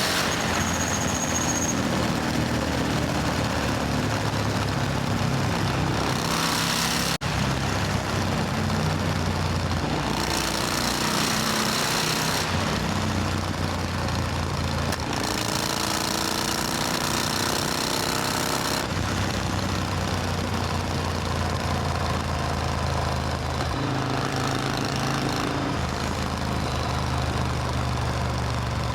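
Supercharged Triumph Thunderbird Storm's 1700 cc parallel-twin engine running on the move. Its pitch rises and falls over a steady rushing noise.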